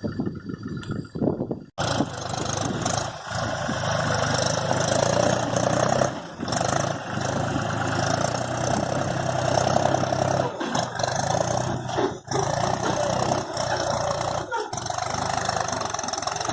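Mahindra tractor's diesel engine running steadily, coming in abruptly about two seconds in after a quieter stretch.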